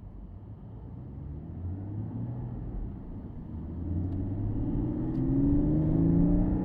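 Porsche Boxster S 987.2's flat-six engine under acceleration, its note climbing in pitch and growing louder, with a brief dip about halfway through, likely a gear change in the manual gearbox.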